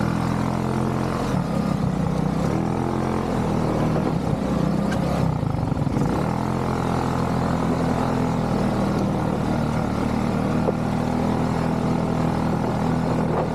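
ATV engine running under way, its pitch dipping and rising again with the throttle about five seconds in.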